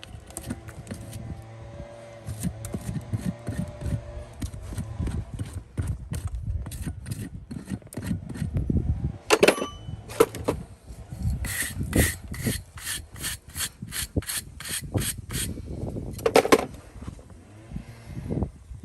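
A farrier's rasp filing a horse's hoof in repeated scraping strokes, quickening past the middle into an even run of about three strokes a second. There are two brief ringing sounds, one about halfway through and one near the end.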